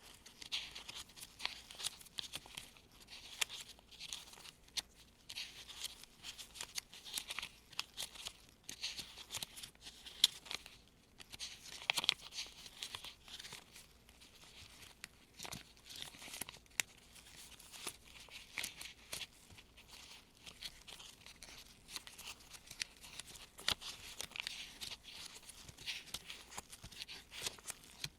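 Gloved fingers sifting through folded US $1 paper bills: continuous rustling and crinkling of the paper, made of many small crisp crackles and ticks, with slightly sharper crackles about ten and twelve seconds in.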